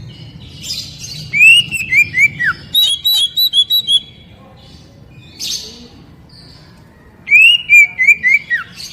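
Oriental magpie-robin of the 'poci' type singing: two loud phrases of quick, down-slurred whistles, each followed by higher, rapid repeated notes. The first phrase comes about a second in and the second near the end.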